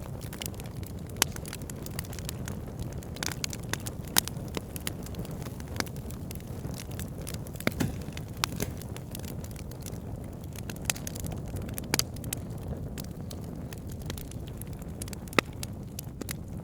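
Wood logs burning, with a steady low rumble and frequent sharp crackles and pops, a few of them much louder than the rest.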